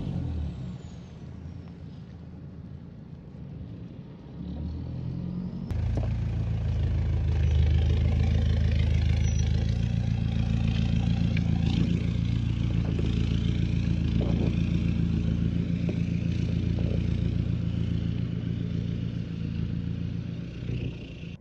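Toyota Prado 150's 3.0-litre four-cylinder turbo-diesel through a straight-pipe exhaust: a rev dies away at the start and the engine runs quieter for a few seconds. From about six seconds in it settles into a louder, steady, low exhaust drone.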